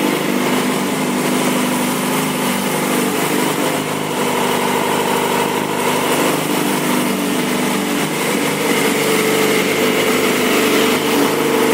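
2007 Yamaha YZF-R6's 600 cc inline-four engine idling steadily through its exhaust pipe.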